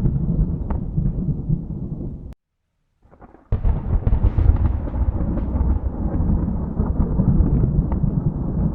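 Thunder rumbling, which cuts off suddenly to a second of silence. About three and a half seconds in, a new thunderclap breaks with a sharp crackle and rolls on as a long low rumble.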